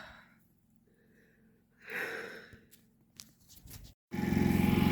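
A person's heavy breaths, two audible sighing exhales, with a few short clicks, then near the end a loud, steady engine running starts abruptly.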